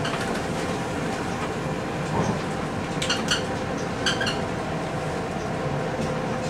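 Passenger train running along the track, heard from the driver's cab: a steady rumble with a level hum. A few sharp metallic clicks come in pairs about three and four seconds in.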